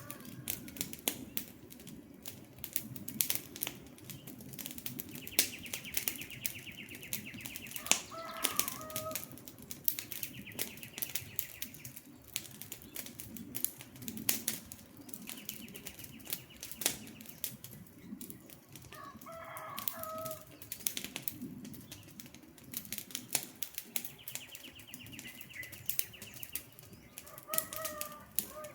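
Wood fire crackling, with frequent sharp pops over a low steady rush. A bird calls three times, about ten seconds apart, and a fast high pulsing trill comes and goes in between.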